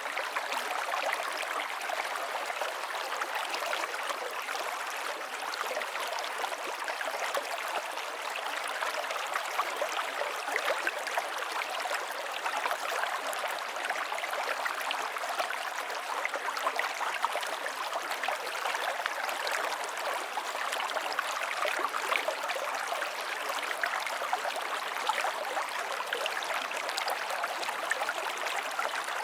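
Flowing river water running steadily over stones, an even rushing with fine splashing and trickling.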